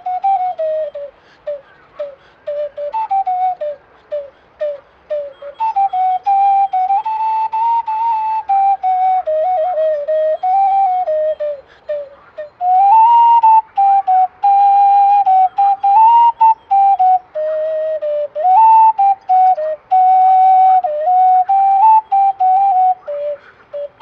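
Handmade white clay ocarina played solo: a melody in a Byzantine-like scale around D5. Short, detached notes for the first five seconds or so, then longer, smoother phrases.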